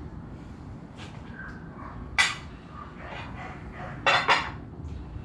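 Metal tools and engine parts being handled, giving short sharp clinks: a loud one about two seconds in and two quick ones about four seconds in.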